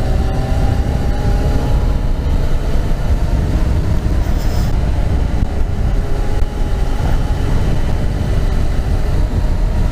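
Yamaha FZ6R's 600cc liquid-cooled engine running at a steady cruise on a moving motorcycle. Its note climbs a little at first, then holds, under loud rumbling wind noise on the microphone.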